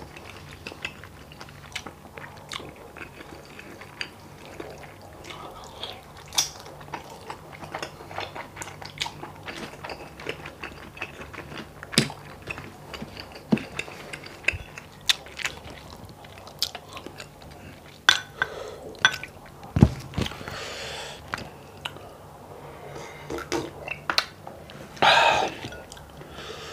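Close-up eating sounds: chewing gelatinous beef skin stew and rice with wet mouth smacks and frequent short clicks, with a louder wet sound near the end.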